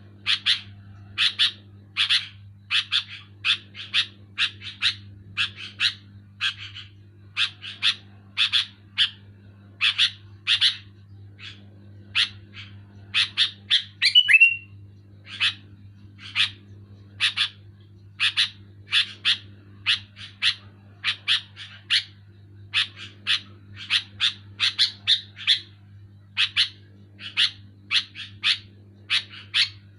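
Sooty-headed bulbul (kutilang) calling loudly and clearly in a rapid series of short notes, about two a second, with one louder, gliding note about halfway through. A steady low hum runs underneath.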